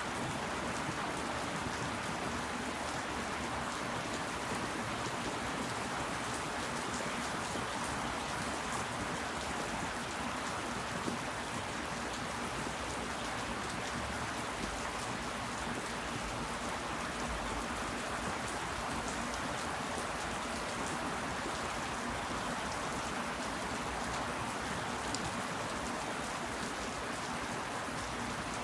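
Steady rain falling: an even hiss, with scattered individual drop ticks on top.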